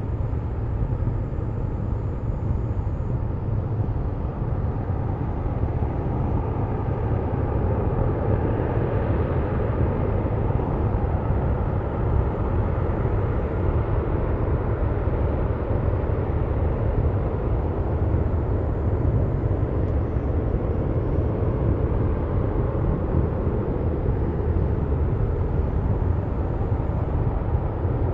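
Distant, steady roar of an LE-9 liquid-hydrogen rocket engine during a static firing test. The roar swells slightly in strength partway through.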